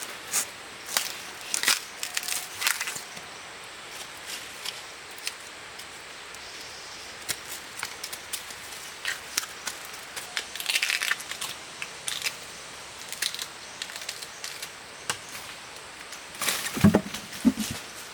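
Irregular snapping and crackling of twigs and dry leaves being broken or crushed, with a few louder knocks near the end.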